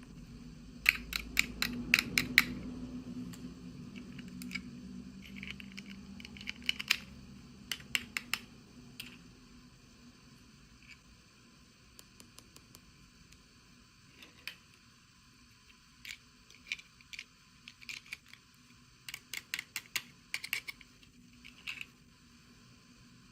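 Small plastic pieces and packaging being handled, giving bunches of quick, sharp clicks and taps, loudest about two seconds in.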